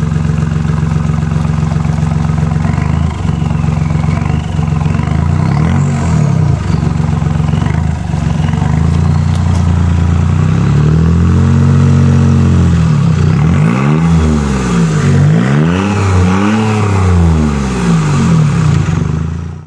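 VW Polo 1.4 TDI three-cylinder turbodiesel running through a straight-piped exhaust, its rear muffler removed, with a rumble. It idles steadily for about ten seconds, then is revved several times, the revs rising and falling repeatedly.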